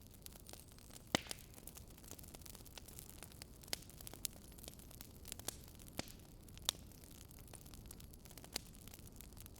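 Campfire of burning logs crackling: irregular sharp pops and snaps, a few louder ones about a second in and toward the end, over a faint steady hiss.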